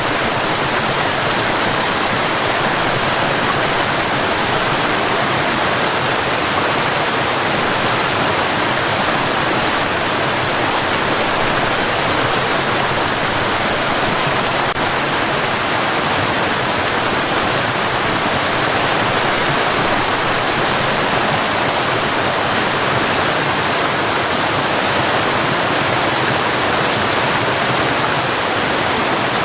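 Steady white noise: an even, unbroken rushing hiss that stays the same throughout.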